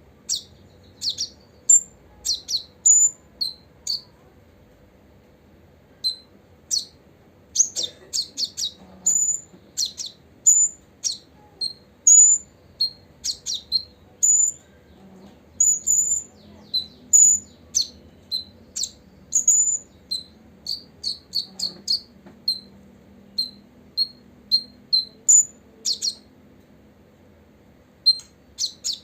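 Copper-throated sunbird calling: an irregular series of short, sharp, high-pitched chirps, some coming singly and some in quick clusters, with a couple of brief pauses.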